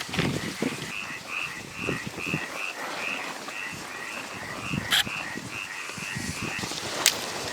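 An animal calling in a steady series of short high chirps, about two or three a second, over low rustling and knocking from handling. Two sharp clicks stand out, one about five seconds in and one near the end.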